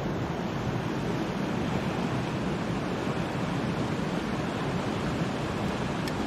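Steady rush of creek water flowing over rocks, an even unbroken noise.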